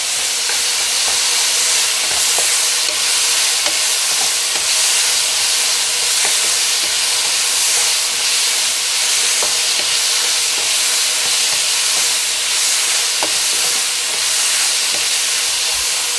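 Chicken strips, bell peppers and onion sizzling steadily in hot oil in a frying pan while being stirred with a wooden spatula, with a few light taps of the spatula against the pan.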